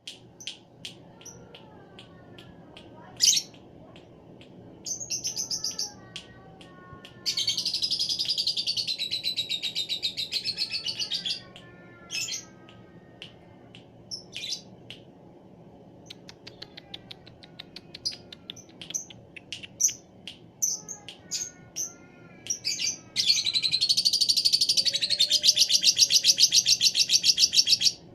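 Lovebird calling: scattered short chirps and whistles, broken by two long, rapid chattering trills, one about seven seconds in lasting some four seconds and a louder one near the end.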